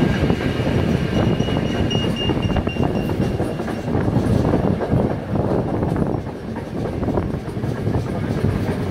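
Steam train running along the track, heard from on board a carriage: a steady rumble of wheels on rails, with a faint high wheel squeal that fades out about three seconds in.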